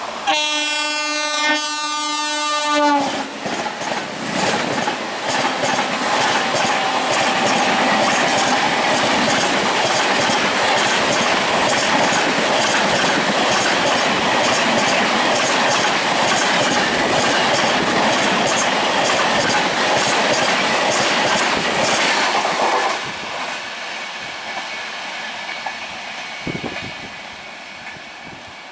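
An Indian Railways train horn sounds one long blast of about three seconds. A passenger train then passes at speed, with the steady rush and rapid clickety-clack of its wheels over the rail joints. About 23 seconds in, the noise drops to a quieter fading rumble as the train goes by.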